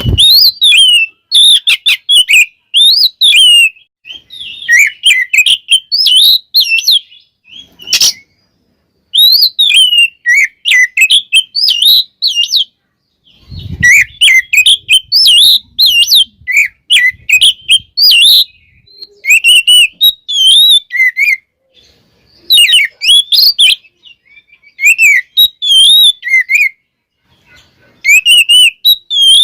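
Oriental magpie-robin (kacer) singing loudly in rapid, varied whistled phrases that slide up and down, in bursts with short pauses between them. A low thump sounds at the start and again about halfway through.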